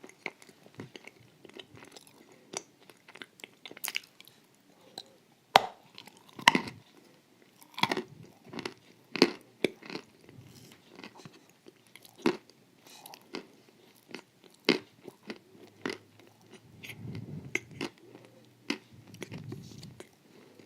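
A person chewing crunchy dessert, with irregular crisp crackles and crunches between quieter wet chewing.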